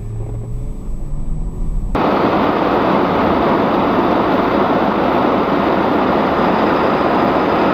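Vehicle engine running and rising in pitch, then about two seconds in an abrupt change to a loud, steady rushing noise, like road and wind noise heard from inside a moving vehicle.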